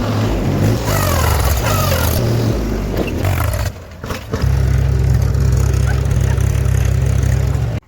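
Heavy diesel machinery running loudly, with a break about four seconds in, then a steady low engine drone that cuts off abruptly near the end.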